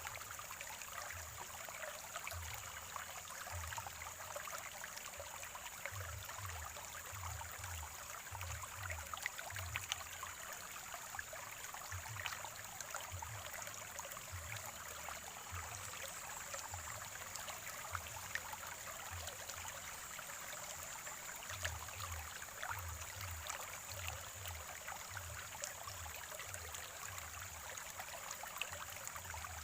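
Small natural spring stream trickling and gurgling steadily over stones, with many small splashes and irregular low, soft thumps.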